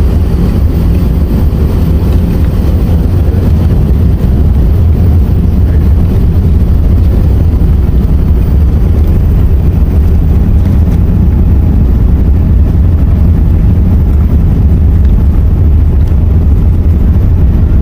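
Four-engine Airbus A380 heard from inside the passenger cabin, rolling on the ground toward and into its takeoff run: a loud, steady, deep rumble of engines and airframe.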